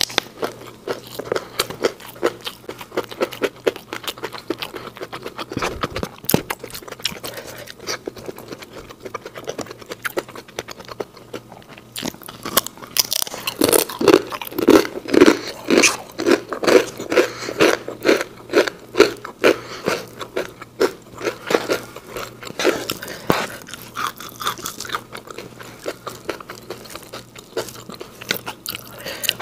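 Close-miked chewing and crunching of food, raw green beans and crisp fried fritter, with many sharp crunchy bites. About halfway through the chewing grows loud and rhythmic, around three chews a second.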